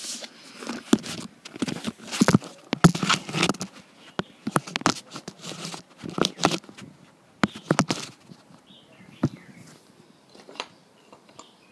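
Handling noises as a camera is set up: rustling, knocks and tapping in bursts for about eight seconds, then quieter with a few single clicks.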